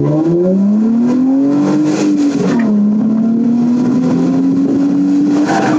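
Nissan 350Z's 3.5-litre V6 heard from inside the cabin, revving up under acceleration. The pitch dips briefly about two and a half seconds in, then holds a steady, slowly climbing note.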